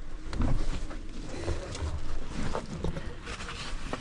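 Highway bus ambience during boarding: a low rumble with scattered soft thuds and light knocks.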